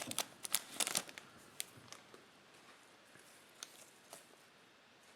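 Crinkling of a Topps Chrome cello pack's plastic wrapper and handling of trading cards: a flurry of crackles in the first second, then a few faint clicks.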